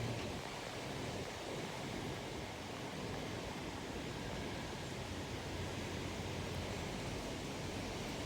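Heavy thunderstorm rain and wind, a steady, even rushing hiss.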